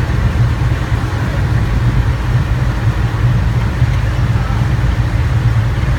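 Boat engine running steadily with a loud, low drone, no change in speed.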